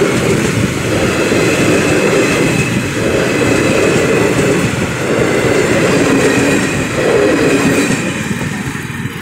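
Passenger train coaches rolling past close by: a steady rumble and rattle of wheels on the rails that swells and dips about every two seconds as each coach goes by. The sound eases off near the end as the last van passes.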